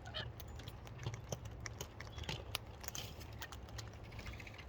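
Cockatoo munching food close to the microphone: irregular crisp clicks and crunches over a low steady hum.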